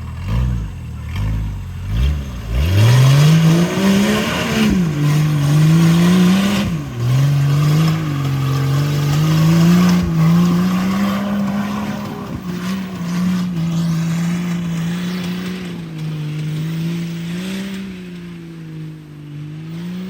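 Mud truck on 44-inch tires blipping its engine a few times, then launching and running at high revs through a mud slough, the pitch rising and falling as the tires spin and grab, with mud spraying. It gets somewhat quieter over the last several seconds.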